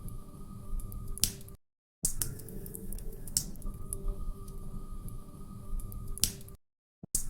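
Log fire crackling in a fireplace: a low steady rumble of burning with sharp pops every second or two. The sound cuts out to dead silence twice, briefly, about a second and a half in and again near the end.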